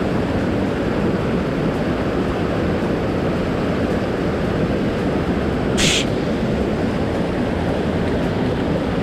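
Swollen mountain stream rushing steadily, a continuous wash of water noise. A short hiss cuts through about six seconds in.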